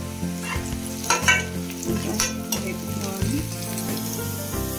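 Chopped onions, green chillies and curry leaves sizzling in hot oil in a stainless steel kadai, frying toward golden brown. A metal spatula stirs them and scrapes against the pan a few times, most sharply about a second and two seconds in.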